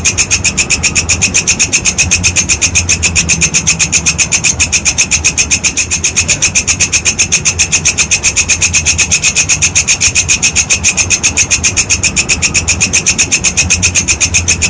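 Walang kecek (walang kekek) grasshopper calling in a fast, even train of rasping chirps, about seven a second, over a low steady hum.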